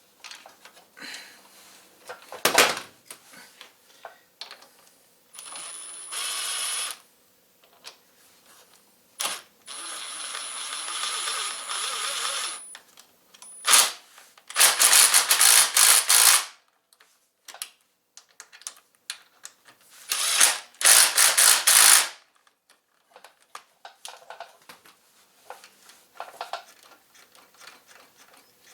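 Metal motorcycle parts and hand tools clicking, clinking and ratcheting during work on a rear brake pedal assembly, broken by several longer noisy bursts of a second or more.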